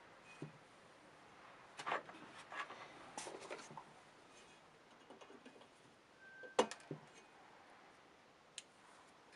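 Scattered light clicks and knocks of hand tools and small parts being handled while an old scale is disassembled. There is a cluster of taps a couple of seconds in, a sharper knock about six and a half seconds in, and one more short click near the end.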